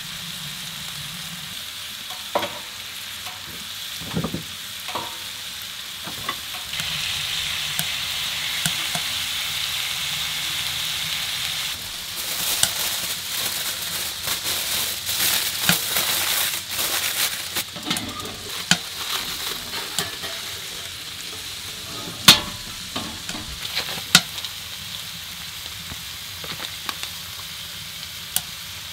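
Chicken, red pepper and onion sizzling in a cast iron skillet as they are stirred, with a denser crackle about halfway through. There are a few sharp knocks, the loudest two about two-thirds of the way in.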